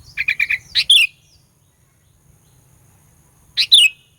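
Sooty-headed bulbul calling: a quick run of four short notes and a sweeping note, then after a pause another sweeping phrase near the end.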